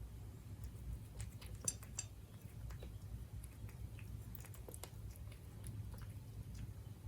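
Siberian cat chewing its food, a scatter of small irregular clicks at the bowl.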